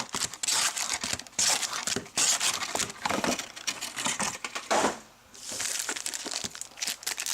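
Plastic trading-card packaging crinkling and tearing as it is handled, in a run of sharp crackles and clicks with a short lull about five seconds in.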